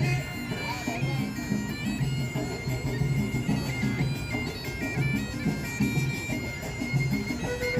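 Folk music led by a shrill reed wind instrument playing a melody in stepped, held notes, over a low, pulsing accompaniment.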